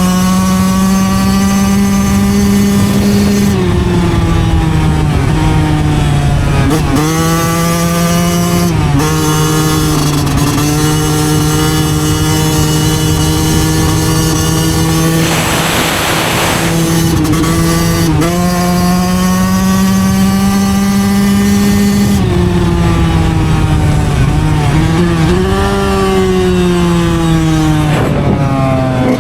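2009 Yamaha YZ125 two-stroke single-cylinder engine running at steady high revs under riding load, its pitch dropping and rising back several times as the rider rolls off and gets back on the throttle. A short rushing hiss comes about halfway through.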